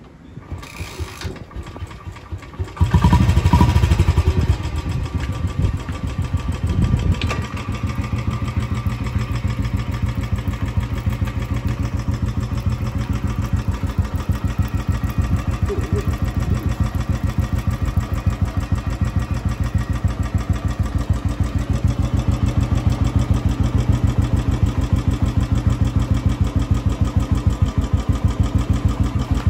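Royal Enfield Bullet 350's single-cylinder engine starting. It catches about three seconds in and revs briefly, blips again a few seconds later, then idles steadily with even pulses.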